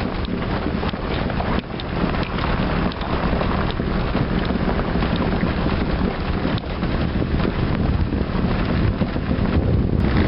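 Steady rushing of a waterfall and river, with wind buffeting the microphone.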